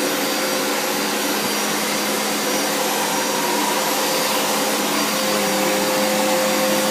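Hoover Boss 1400-watt vacuum cleaner running steadily: a dense rush of air over a steady motor hum, its pitch shifting slightly about five seconds in.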